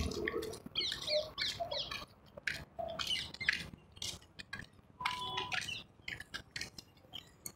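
Birds chirping in short, quick calls over scattered light taps and clicks.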